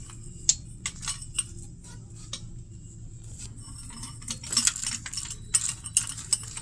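Sharp metallic clicks and clinks of hand tools and engine parts being handled, coming thicker about four seconds in, over a low steady hum.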